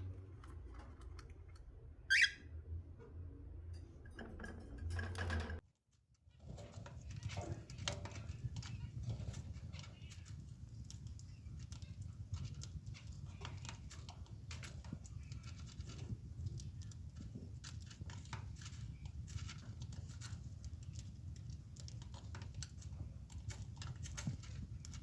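Pet cockatiel giving one short, sharp chirp about two seconds in, followed by a long run of small scattered clicks and scuffles over a low hum.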